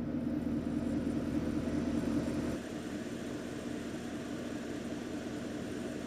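Steady low rumbling noise with no clear tone or rhythm, dropping a little in level about two and a half seconds in.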